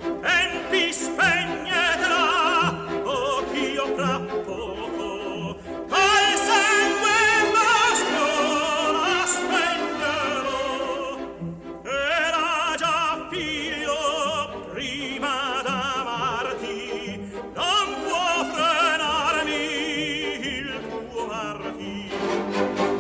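Operatic tenor singing a fast, martial aria over a full orchestra, his held notes carrying a wide vibrato, with brief breaks between phrases.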